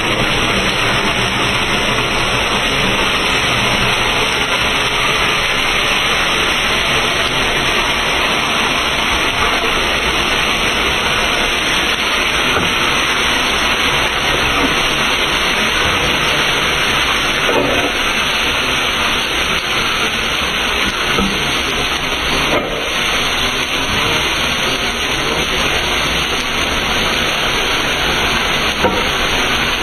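Steady hiss of chicken pieces frying in a wok, stirred with a metal ladle, with a few light clicks of the ladle against the pan.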